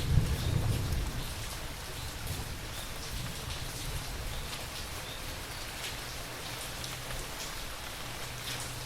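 Steady rain falling, with individual drops standing out. A low thunder rumble at the start fades away within the first second or two.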